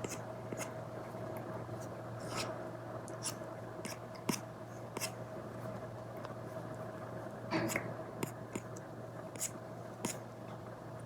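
Stylus tip tapping and stroking on a tablet screen fitted with a paper-like matte protector: scattered short taps and scratches, with a longer scratchy stroke about two-thirds of the way through, over a steady low hum.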